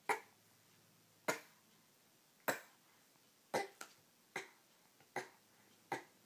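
A series of sharp taps, about one a second, eight in all, two of them in quick succession near the middle.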